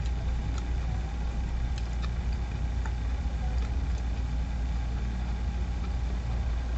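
A steady low mechanical hum, like an engine or motor running, with a few faint clicks over it.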